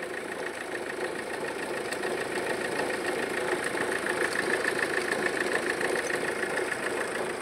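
Mahindra XUV500 engine idling with a steady, rhythmic growl ('ghar ghar ghar') and vibration from the front accessory belt drive. The noise comes from a belt tensioner broken in two and a torn drive belt.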